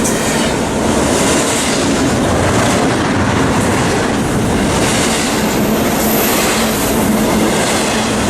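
Freight train rolling past close by, its wheels clattering steadily over the rail joints. There is a faint high wheel squeal about two thirds of the way through.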